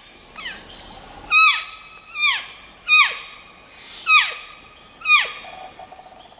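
A series of about seven short animal calls, each sliding steeply down in pitch, repeated roughly once a second.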